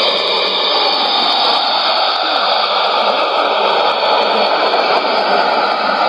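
Shortwave radio reception on a Sony ICF-2001D receiver tuned to 5905 kHz: a steady hiss of static with faint wavering tones beneath it, two stations clashing on the same frequency.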